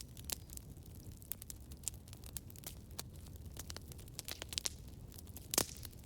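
Campfire crackling: irregular sharp snaps and pops over a low rumble, with one louder pop near the end.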